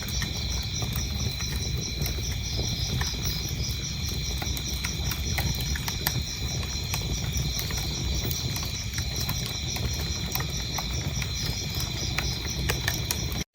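Wood fire crackling with scattered pops over a low, steady rumble, while crickets chirp in a fast, even, continuous pulse. The sound drops out for an instant near the end.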